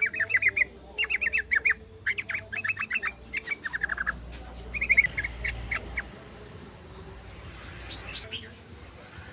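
Yellow-vented bulbul (trucukan) singing: quick bursts of rapid, bubbly chattering notes, one phrase about every second, which stop about six seconds in.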